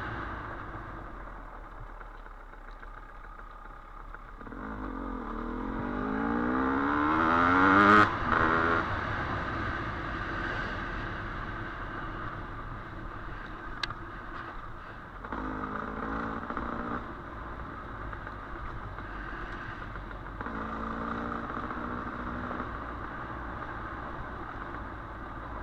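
Dirt bike engine on a trail ride, revving up with pitch climbing to a loud peak about eight seconds in, then easing off, with two shorter bursts of throttle later.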